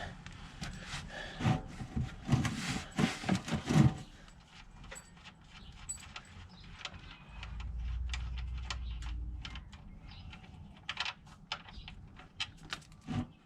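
Sharp metallic clinks and knocks of tools and parts being handled under the car, many in the first four seconds and a few more near the end. In the middle, a low rumble of wind on the microphone lasts about two seconds.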